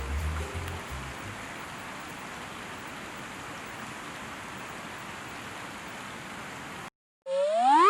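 Background music fades out in the first second. A steady rushing hiss follows, then cuts off suddenly about seven seconds in. After a moment of silence a loud rising whistling glide starts near the end.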